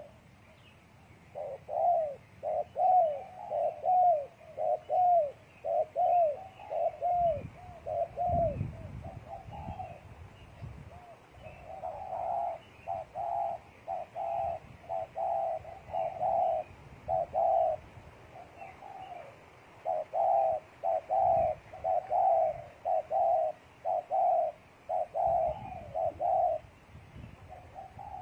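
Spotted doves cooing in long runs of short repeated coos, with a pause about a third of the way through. A few low rumbles sit under the cooing.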